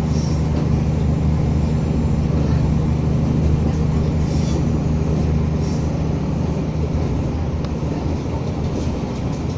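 Materfer diesel railcar under way, its engine giving a steady low drone mixed with rolling rail noise, with a few brief high-pitched sounds over it.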